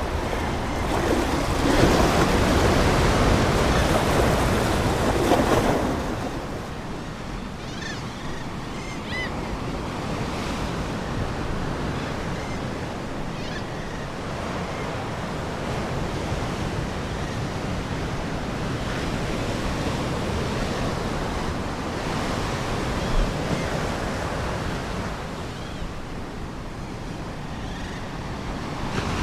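Ocean waves washing on a shore. One wave surges loudly for the first six seconds or so, then a softer, steady wash continues.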